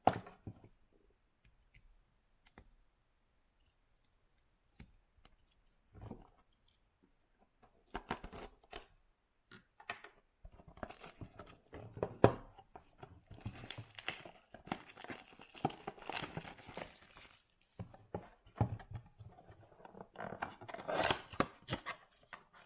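Cardboard blaster box of basketball cards being torn open: after several quiet seconds with faint clicks, repeated bursts of tearing and scraping from about eight seconds in.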